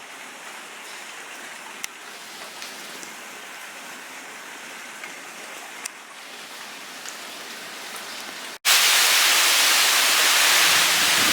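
Light rain falling, a soft even hiss with a few scattered drips. About eight and a half seconds in it cuts off abruptly to much louder noise of a band of wind and rain.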